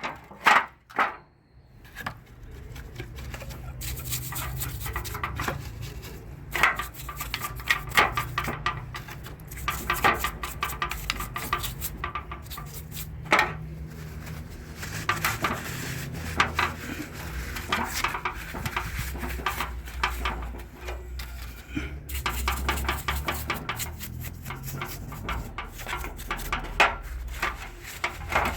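Metal parts and hand tools clinking, knocking and scraping in irregular short taps as a car alternator is taken apart by hand.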